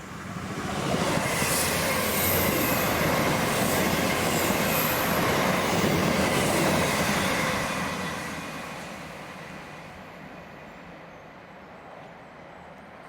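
A passenger train passing through the station, wheels running on the rails with some high squealing, growing loud about half a second in, holding for several seconds, then fading away.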